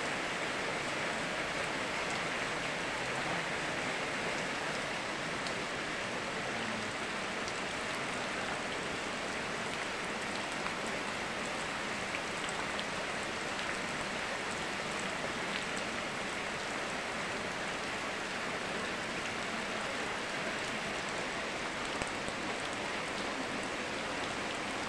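Steady rain falling, blended with flowing river water: an even hiss with a few faint drop ticks scattered through it.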